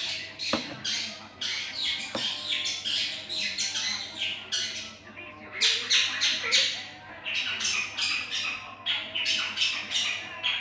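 Bird calls: a rapid series of loud, harsh, raspy calls, about two to three a second, with short lulls about five and nine seconds in.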